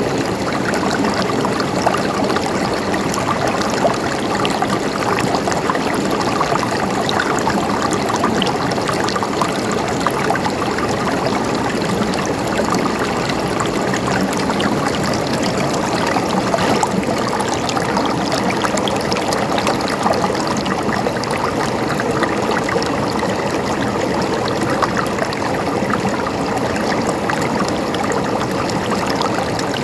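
Water flowing and gurgling steadily in a stream, with an even rush and fine splashing throughout.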